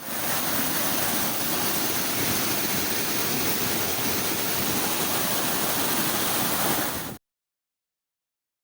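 Steady rush of water falling at the Galboda Ella waterfall, cutting off suddenly about seven seconds in.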